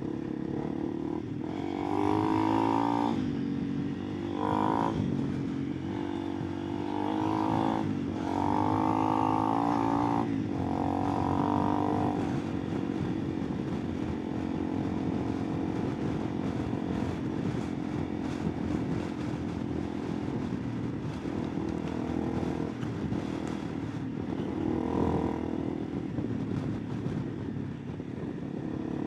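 Honda CRF300 Rally's single-cylinder engine revving up and easing off repeatedly for the first twelve seconds or so, as if accelerating through the gears, then running more steadily, with one more surge near the end.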